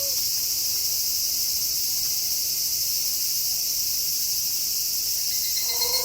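Steady night chorus of crickets, a continuous high-pitched shrill. A wolf howl glides down and fades out at the very start, and another long steady howl begins near the end.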